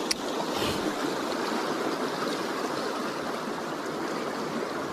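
Fast creek water rushing steadily, with one sharp click near the start.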